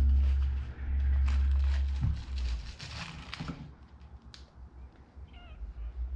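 Wooden viewing flap of a bird hide being opened: a few knocks and a squeak from the wood and hinges, over a low rumble.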